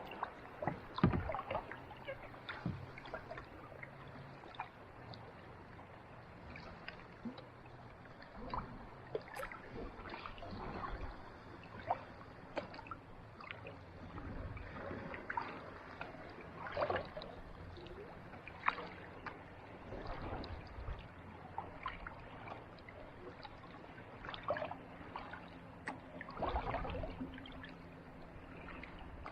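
Kayak paddle dipping into calm sea water, with irregular small splashes and drips as the blades enter and leave the water.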